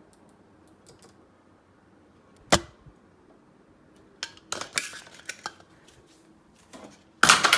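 Mini ceiling fan falling and clattering against hard surfaces. There is one sharp knock about two and a half seconds in, a run of lighter rattling knocks a couple of seconds later, and the loudest clatter near the end.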